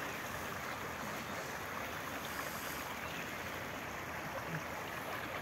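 Small stream of water flowing steadily, an even rushing sound.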